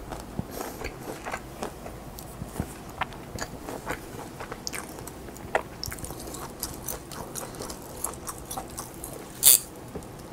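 Close-miked chewing and biting of food, with a run of small sharp wet clicks from the mouth. A single much louder, sharper noise comes about nine seconds in.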